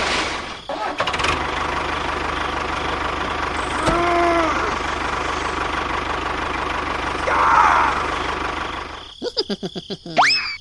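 A small engine running steadily with a low, even pulse. A short pitched tone sounds about four seconds in, and quick rising whistle-like sweeps come near the end.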